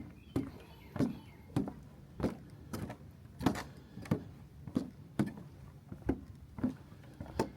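Walking on a wooden boardwalk: footfalls and trekking-pole taps knocking on the boards at a steady walking pace, about three knocks every two seconds.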